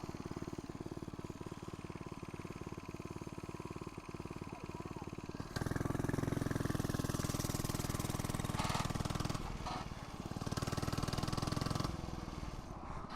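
FRP GMB100 mini bike's 99cc four-stroke single-cylinder engine running as the bike is ridden past. It gets abruptly louder about five and a half seconds in, dips around nine and a half seconds, is loud again for about two seconds, then falls back near the end.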